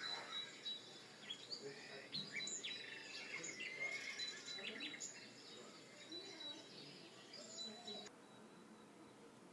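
Birds chirping and calling, many short quick chirps over a faint outdoor background, cutting off abruptly near the end.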